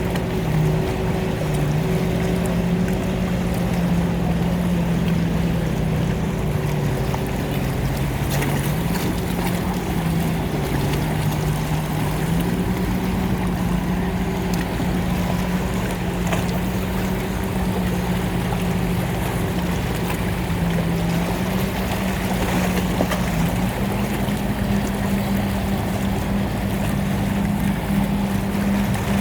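A boat's engine running steadily, its low hum stepping up and down in pitch a few times as the throttle changes. A steady wash of water and wind noise sits behind it.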